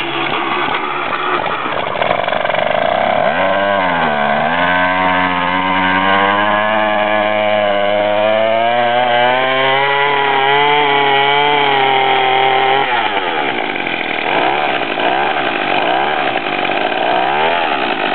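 Small two-stroke weed-whacker engine on a homemade motorized bicycle, started cold on choke. About three seconds in it revs up and holds a high, steady pitch for about nine seconds, then drops back to an uneven idle.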